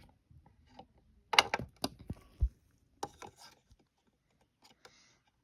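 A quick cluster of sharp clicks and knocks from small hard objects being handled, loudest about a second and a half in and ending with a low thud, followed by a few softer clicks.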